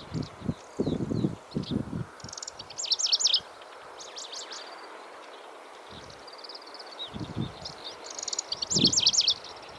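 Middendorff's grasshopper warbler singing: two short bursts of rapid, repeated high notes, about six seconds apart, with scattered quieter notes between.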